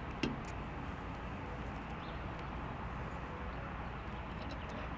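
Steady open-air background noise, with a single short click or knock just after the start.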